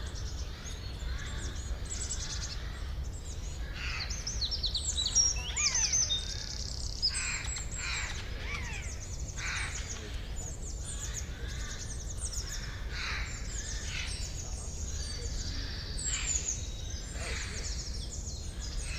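Forest birdsong: many birds chirping and singing at once in quick high notes and short gliding phrases, with harsher, noisier calls every couple of seconds, over a steady low rumble.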